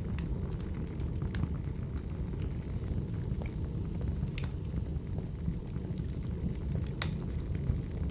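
Wood fire burning: a steady low rumble of flames with scattered sharp crackles and pops, two louder pops about four and a half and seven seconds in.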